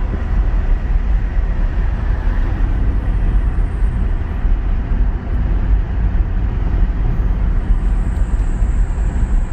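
Steady road noise inside a moving car's cabin: a constant low rumble of tyres and engine.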